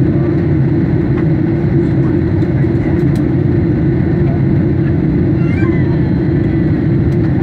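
Steady cabin drone of a Boeing 737 airliner in flight: engine and airflow noise, loud and even, heard from inside the passenger cabin.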